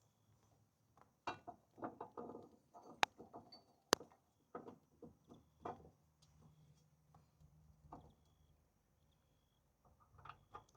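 Clatter and knocks of tools and parts being handled, with two sharp clanks about three and four seconds in.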